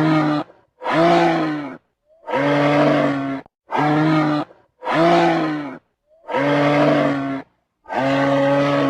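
A camel calling seven times in a row: deep, pitched calls of about a second each, separated by short gaps.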